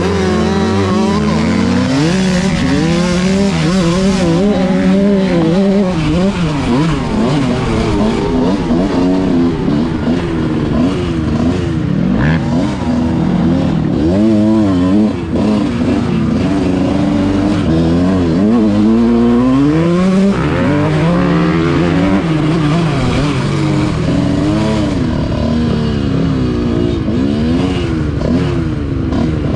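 Dirt bike engine being ridden hard, its revs climbing and dropping again and again as the throttle is worked on and off.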